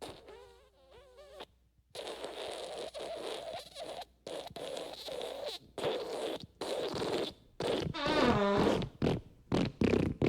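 A string of fart sound effects, one after another with short gaps between them. Some are pitched and wavering, and others are raspy and noisy. One near the end drops in pitch.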